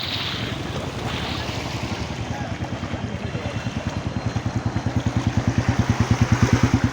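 A vehicle engine running with a steady low throb, growing louder and more distinct from about halfway through, over a steady hiss.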